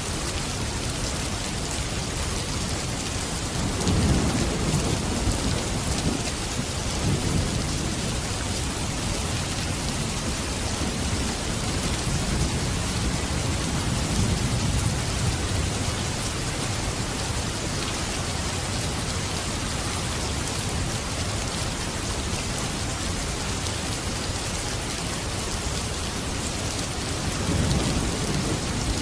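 Steady rain falling, with low thunder rumbling in rolls a few seconds in, again midway, and near the end.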